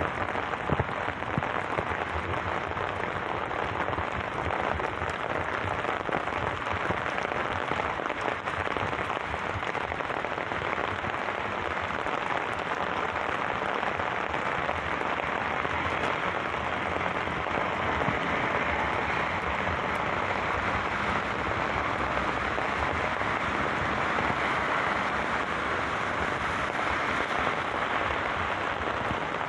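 Heavy rain falling and splashing on wet paving: a steady, even hiss of drops.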